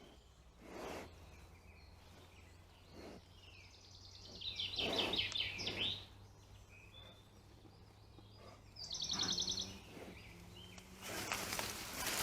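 A songbird sings two phrases, each a fast trill of repeated high notes, the first a little after four seconds in and the second after about nine seconds. Near the end comes a burst of close rustling and crackling.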